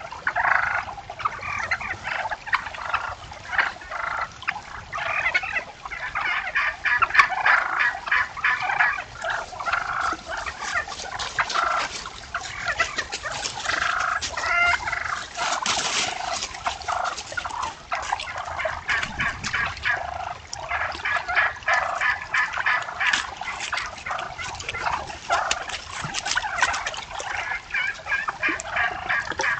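A flock of wild turkeys calling, many short calls overlapping in a steady chatter.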